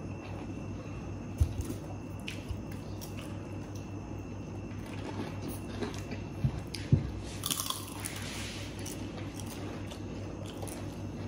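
Close-up eating sounds: chewing and biting into fried snacks, with a few soft knocks and a short crunchy crackle about seven and a half seconds in.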